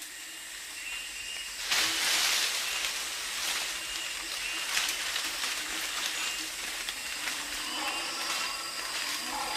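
Rainforest ambience: a steady high-pitched hiss of insects with short bird chirps. Just under two seconds in, a louder rush of rustling foliage lasts about a second.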